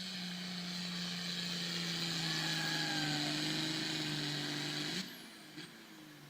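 Turbocharged diesel pulling-tractor engine running hard, with a high hissing whine over it. Its pitch slowly drops as it pulls under load. The sound cuts off abruptly about five seconds in.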